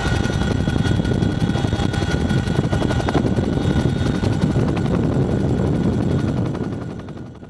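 Boeing CH-47 Chinook tandem-rotor helicopter running loud and steady: a rapid beat of the rotors with a steady high whine from its turbines. It fades out near the end.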